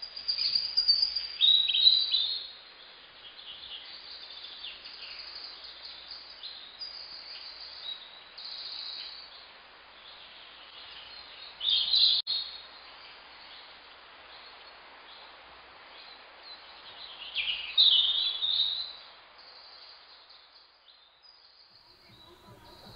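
Birds chirping and calling, with louder bursts of song near the start, about halfway through and again about three-quarters of the way in. The calls die down near the end.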